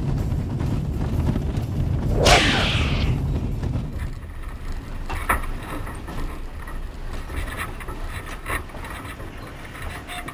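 Low rumble of a vehicle on the move, with a loud whoosh about two seconds in; after about four seconds it drops to a quieter background with scattered knocks and clicks.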